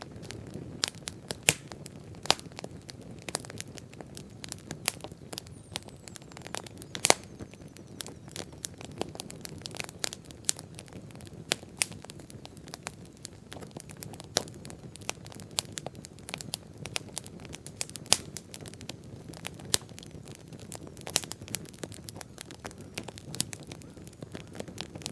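Wood bonfire burning, crackling with sharp pops at irregular intervals over a steady low rush of flame; the loudest pop comes about seven seconds in.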